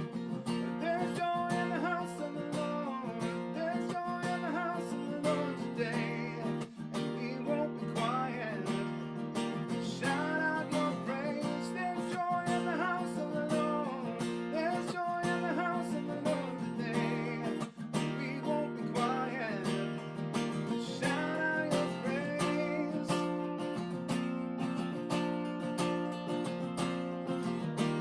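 Acoustic guitar strummed steadily through a worship song passage, with a gliding melody line over the chords.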